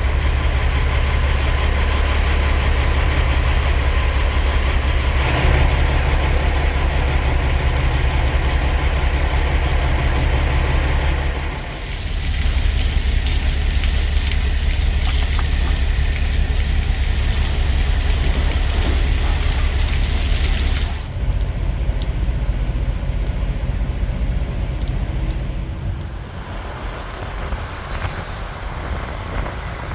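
Kenworth W900 semi truck's diesel engine running with a steady low drone, its sound shifting abruptly about 12 and 21 seconds in.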